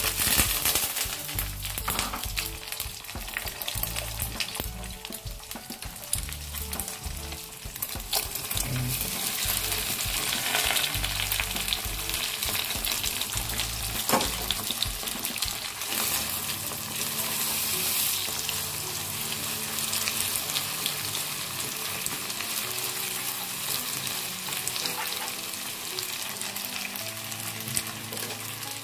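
Egg and a fresh-oyster batter sizzling in hot oil in a non-stick wok, a steady crackling hiss, with a spatula now and then scraping and stirring the pan.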